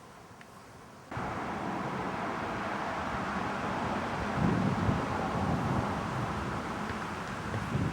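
Wind buffeting a camcorder microphone: a loud, steady rushing noise that starts suddenly about a second in, with heavier low rumbling gusts around the middle and again near the end.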